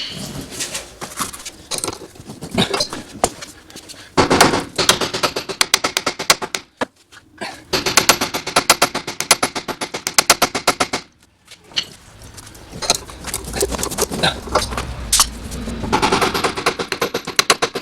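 Pneumatic tool rattling in rapid bursts against a gear puller on a seized steering-gear Pitman arm, with two long bursts in the middle and shorter runs of strikes before and after; the arm has not yet come loose.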